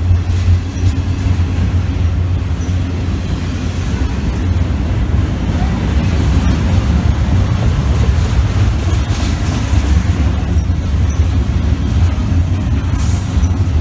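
Double-stack intermodal freight cars rolling past close by: a loud, steady rumble of steel wheels on the rails, with a brief higher hiss near the end.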